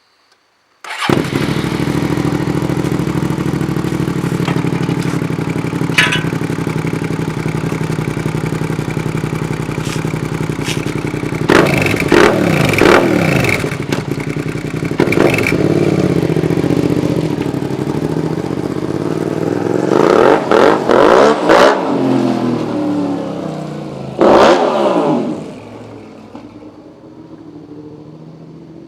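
Suzuki SV650's 645 cc V-twin through an Akrapovič aftermarket exhaust: it starts about a second in and idles steadily, then is revved in short blips several times, and its sound drops away near the end.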